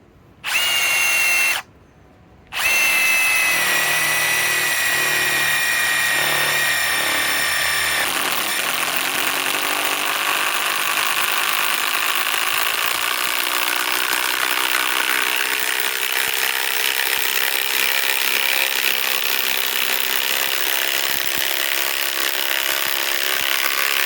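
Ryobi PSBIW25 compact impact wrench driving a large lag screw into wood under heavy load. A one-second burst is followed, after a short pause, by one long continuous run of about twenty seconds that cuts off sharply at the end. The wrench is struggling to seat a lag screw too big for a compact tool.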